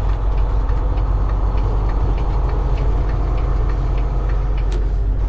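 Diesel engine of a semi-truck heard from inside the cab: a steady low rumble, with light ticks on top of it.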